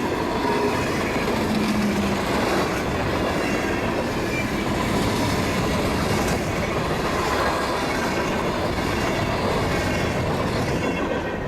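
Freight train cars rolling past on the rails, a steady loud clatter of wheels over the track with faint squealing tones now and then.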